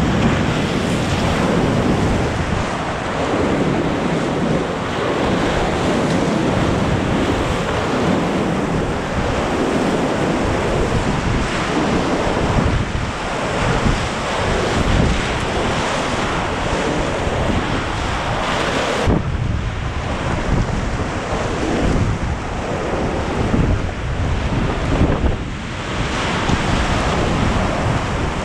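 Rushing whitewater rapids of a river at high water, loud and continuous, with wind noise buffeting the microphone; the level surges and dips without a break.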